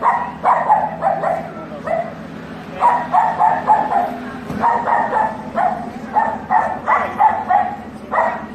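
Dog barking and yipping excitedly in quick runs of short, high calls, with brief pauses between runs.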